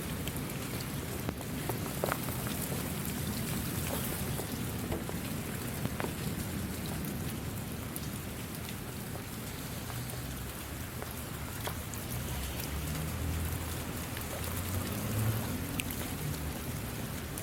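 Steady rain falling, with scattered sharper drop ticks and a low rumble that swells near the end.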